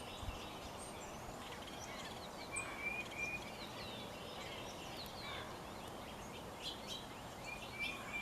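Several birds calling: scattered short chirps and quick rising and falling whistles over steady outdoor background noise, with a brief louder trill about two and a half seconds in and another near the end.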